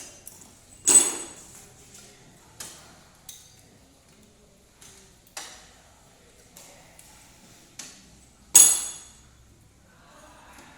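Metal tools and engine parts clinking and knocking on a workbench: two loud ringing metallic strikes, about a second in and near the end, with several lighter clicks between.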